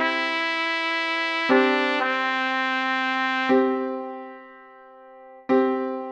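Digitally rendered playback from music-notation software of an original piece for trumpets and piano: slow sustained chords, a new one sounding about every two seconds and fading before the next.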